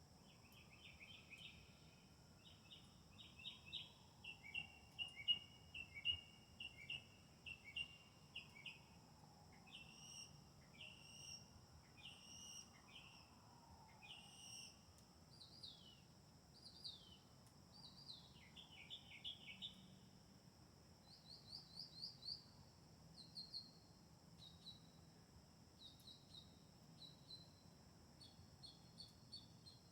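Several songbirds singing: repeated whistled phrases and chirps follow one after another, busiest in the first half. A steady high-pitched whine runs underneath.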